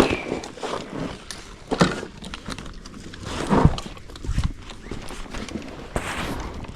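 Footsteps of someone walking, irregular knocks and thuds with some rustling, a heavier thump about three and a half seconds in.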